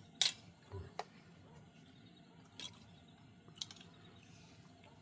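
A few scattered sharp clicks and taps, with the loudest about a quarter of a second in and a short dull knock just before the one-second mark.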